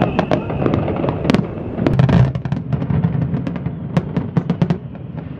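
Fireworks display: a rapid run of sharp bangs and crackling reports with a low rumble beneath, a whistling shell trailing off about half a second in, the bangs thinning out near the end.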